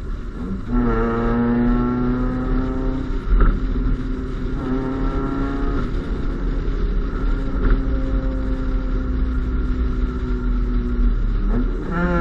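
Honda Civic's D15B2 1.5-litre four-cylinder engine through an Invidia aftermarket exhaust, climbing in pitch about a second in and then holding a steady drone. Brief pitch shifts come around three and a half and five seconds in, and another quick rise comes near the end.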